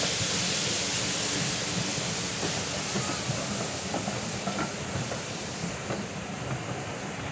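Steam-hauled train's coaches rolling past as it departs, with a hiss of steam that slowly fades while the wheels click over the rail joints at an uneven pace.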